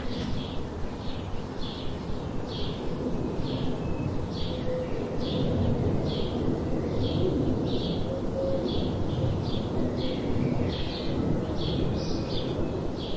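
A small bird calling over and over, short high chirps at a steady pace of about two a second, over a steady low rumbling background noise.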